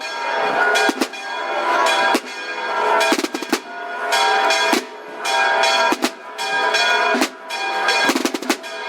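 A procession band's snare and bass drums playing rolls and beats under sustained instrument tones, in phrases about a second long.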